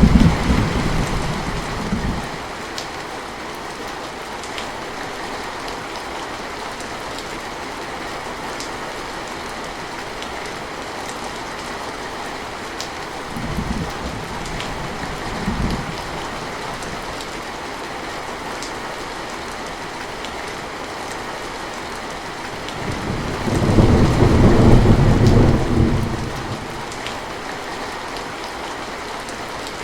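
Steady rain falling, with thunder rumbling: a rumble dying away at the start, two short rumbles near the middle, and a longer, louder one about three-quarters of the way through.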